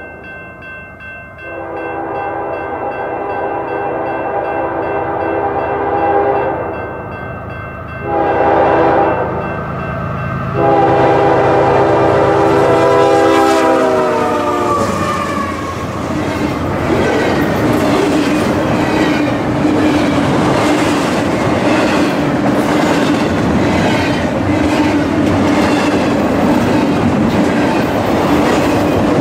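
Train horn sounding a series of blasts, the last one held and dropping in pitch as the locomotive passes at speed. The rumble and clatter of the train's cars going by follows.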